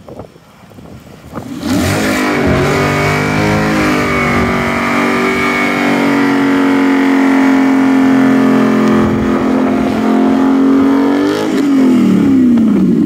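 Dodge Charger 392's 6.4-litre HEMI V8 revved up under throttle while its rear wheels spin in packed snow. The engine note climbs about a second and a half in, holds at high revs for around nine seconds, then falls away near the end.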